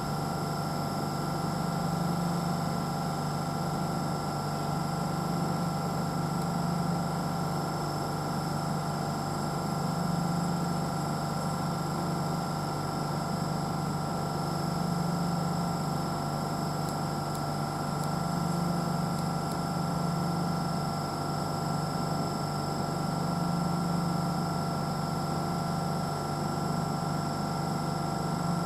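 A train standing at the platform with its on-board equipment running: a steady low hum with constant high-pitched whines above it, the hum swelling gently every two to three seconds.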